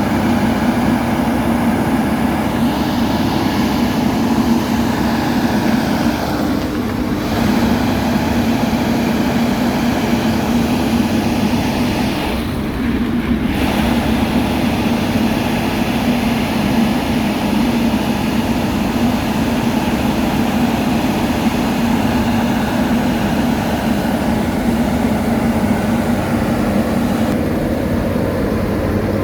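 Heavy road-paving machinery running steadily, with a continuous low diesel engine hum.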